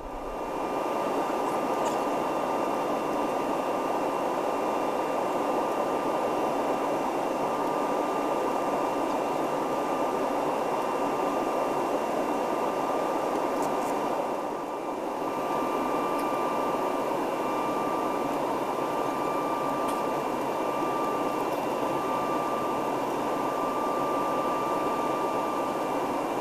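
Steady rushing cabin noise inside an Airbus A320neo airliner in flight, engines and airflow blending into an even hiss with a faint steady hum, easing briefly about halfway through.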